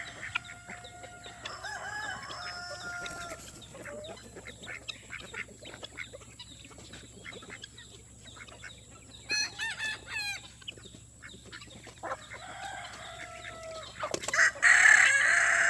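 Chickens clucking and calling, with a louder, harsher call near the end.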